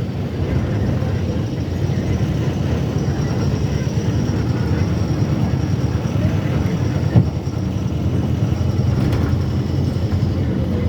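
A moving vehicle's engine and running gear give a steady low rumble, with a faint high whine over it. One sharp knock comes about seven seconds in.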